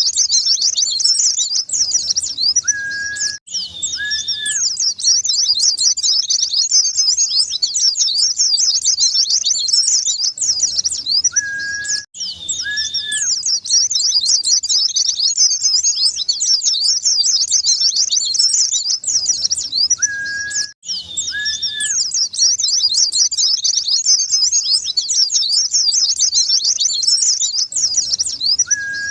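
White-eyes (pleci) singing: a fast, unbroken twitter of high chirps, in a recording that loops about every nine seconds with a brief dropout at each join. Two short steady whistle notes recur early in each loop.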